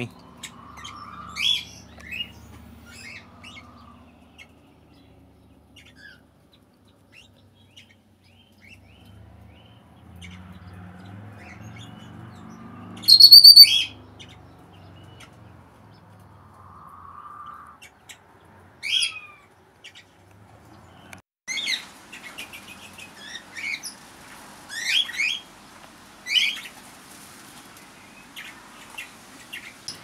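Aviary birds chirping: scattered short high chirps and calls, the loudest a sharp, high whistled call about 13 seconds in, with a busier run of chirps near the end.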